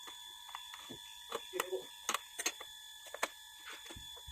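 Irregular light clicks and taps from handling the parts of a small Bluetooth speaker being repaired, over a faint steady high-pitched whine.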